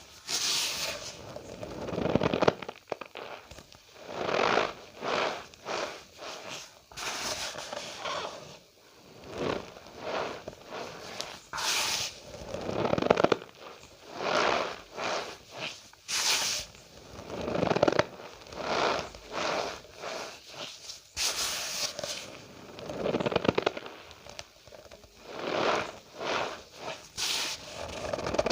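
Cornstarch powder squeezed and pressed by hand, giving repeated squeaky crunches, about one squeeze every second or so.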